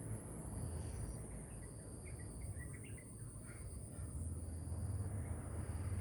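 A steady high insect trill, like crickets, goes on throughout. Small birds give a quick run of short chirps in the middle, over a low rumble.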